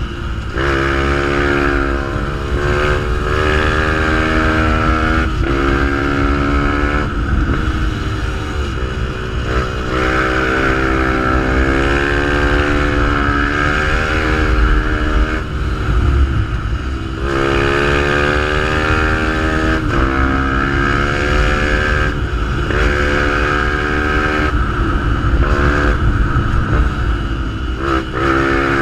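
Fantic 125 supermotard's single-cylinder engine through a GPR exhaust, under way: the revs climb, break off briefly and climb again over and over as it shifts through the gears.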